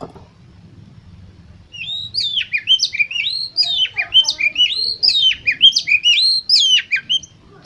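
Oriental magpie-robin (kacer) singing: a fast, loud run of sweeping whistled notes that starts about two seconds in and stops shortly before the end.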